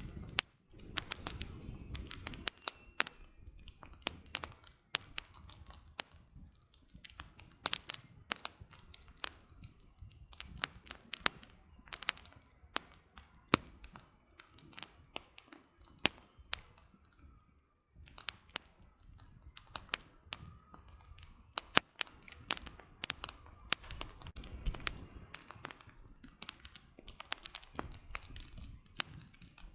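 Wood campfire crackling: burning firewood gives irregular sharp pops and snaps, several a second, some much louder than others, over a faint low rustle of flame.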